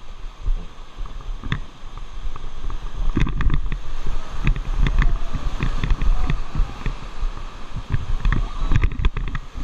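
Inflatable raft going through a river rapid: rushing, splashing water and wind buffeting the microphone, with irregular knocks and thumps of water against the raft throughout.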